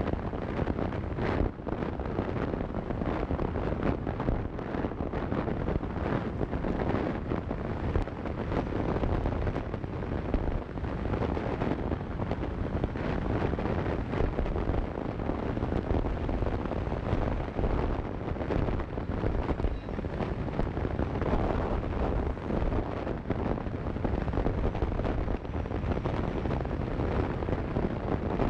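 Wind buffeting the microphone of a motorcycle-mounted action camera during a ride, a steady rough rush with the motorcycle's running and road noise underneath.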